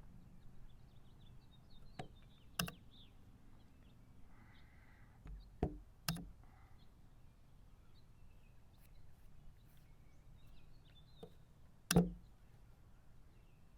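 Chess pieces set down on the board and the chess clock pressed during a blitz game: three pairs of sharp knocks about half a second apart, the last pair the loudest, over faint birdsong.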